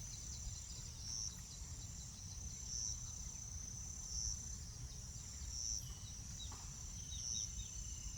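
A cricket-like insect trilling steadily at a high pitch, swelling louder about every one and a half seconds. A few short, high bird chirps come in the second half, over a low rumble.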